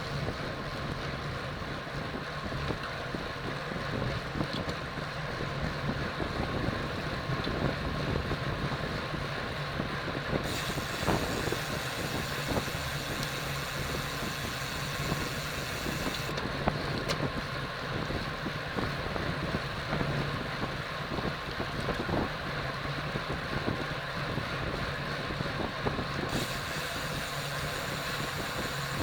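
Steady rush of wind over the microphone of a camera riding on a racing bicycle at speed, mixed with tyre and road noise.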